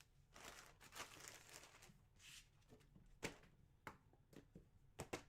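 Very quiet handling noise: faint rustling for the first couple of seconds, then a few light clicks near the end.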